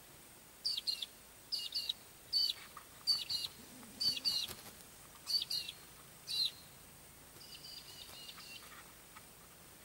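A bird calling: about seven short, sharp chirps, roughly one a second, followed near the end by a fainter, longer twitter.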